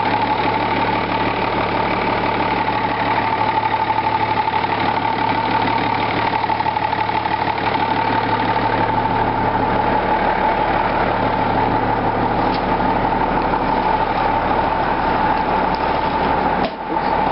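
Case 2290 tractor's six-cylinder Case 504 diesel idling steadily at about 800 rpm with a steady high-pitched whine over it, still cold after a start without the block heater plugged in. The sound briefly dips near the end.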